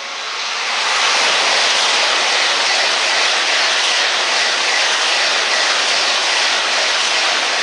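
A 700-series Tokaido Shinkansen train passing close by. It is a loud, steady rushing noise that builds over the first second, holds while the cars go by, and begins to fade near the end.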